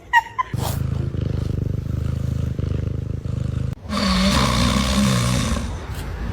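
A cat purring loudly, a rapid low rumble. About four seconds in it changes to a louder sound with a wavering pitch, like a cat's drawn-out meowing.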